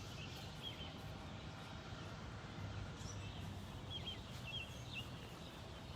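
Faint outdoor ambience: a steady low rumble with small birds chirping, a few short high chirps near the start and a cluster about four to five seconds in.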